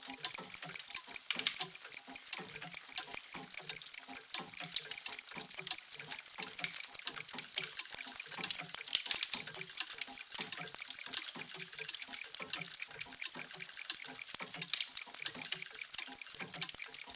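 Many mechanical clocks ticking at once, out of step with each other, making a dense, continuous clatter of sharp ticks with deeper, slower ticks beneath.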